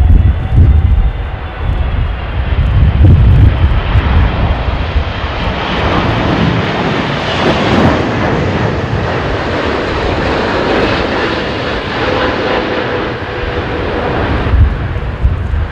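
Jet airliner on approach in a strong crosswind, its engines' roar building and passing, loudest midway and then fading, with a faint steady whine. Gusty wind buffets the microphone at the start and end.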